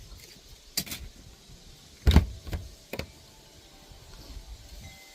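A few short knocks and clicks, the loudest a heavy thump about two seconds in.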